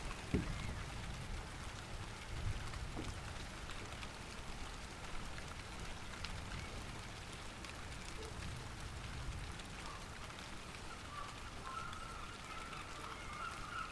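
Steady light rain falling, with individual drops ticking close to the recorder over an even hiss.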